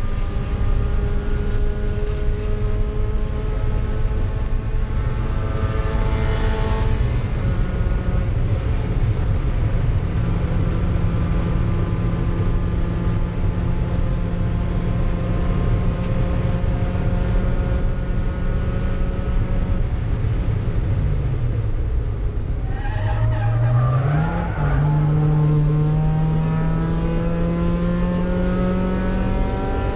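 Mazda Miata race car's four-cylinder engine heard from inside the cockpit over loud wind and road noise, running at steady high revs. About twenty seconds in the revs drop sharply as it slows for a corner, then climb again, shift up once and keep rising.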